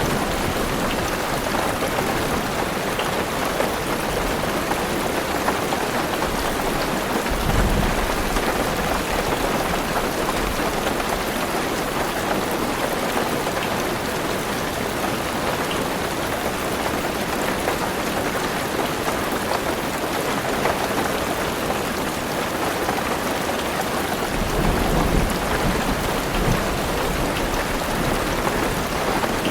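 Heavy rain pattering steadily on a car roof and windows, with a low thunder rumble about seven seconds in and a longer one near the end.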